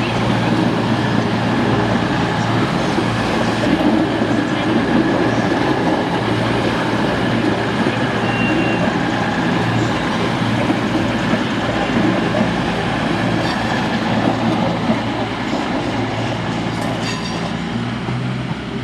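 Train running through the station: steady, loud wheel-on-rail noise with a low hum, easing off slightly near the end.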